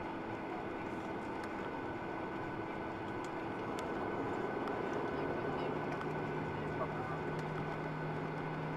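Steady cabin hum inside a Boeing 737-800 on the ground after landing, with a few thin steady tones over it and scattered faint clicks. A low steady hum joins about five and a half seconds in.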